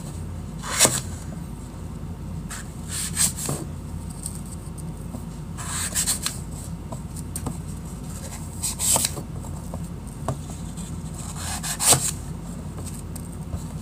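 Melamine-foam magic eraser sponges scraping and rubbing as they are cut into small cubes with a knife and handled: about five short rasps a few seconds apart.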